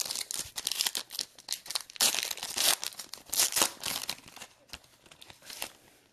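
A trading-card pack wrapper being torn open and crinkled, with cards sliding out. Quick, dense crackling and rustling that thins out near the end.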